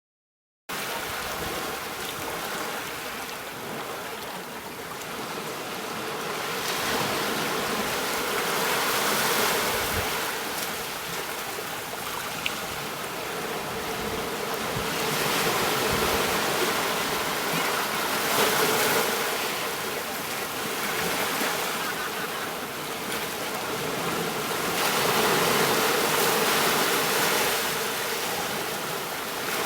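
Sea waves washing ashore, starting about a second in and swelling and easing in slow surges every eight to ten seconds.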